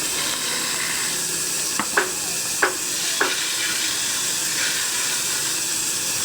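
Steady hiss with three short sharp taps about two to three seconds in.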